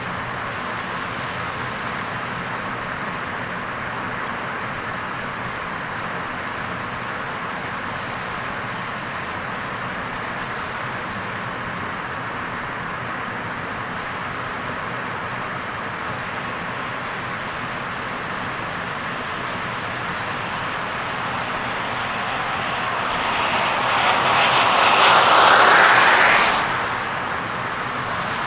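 Steady road and tyre noise of a car driving on a wet expressway in heavy rain. Near the end a louder rushing noise swells for a few seconds and then drops away suddenly.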